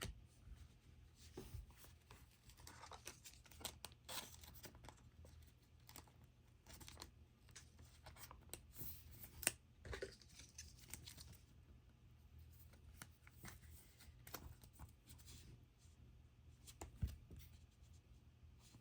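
Faint rustling and scattered light clicks of chromium trading cards and foil pack wrappers being handled and opened.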